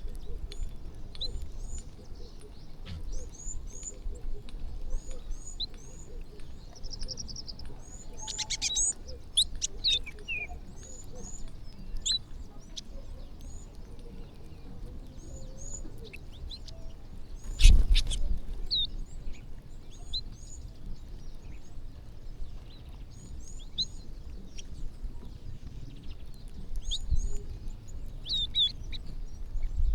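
A flock of small birds chirping, many short, high chirps overlapping throughout. A single sharp knock sounds a little past halfway.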